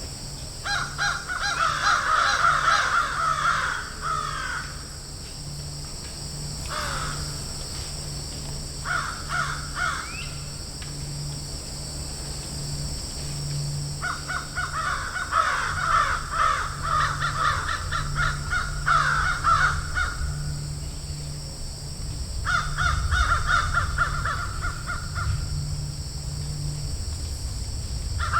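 Crows cawing in a field, in several bouts of rapid, harsh repeated caws separated by short pauses, over a faint steady high-pitched background hiss.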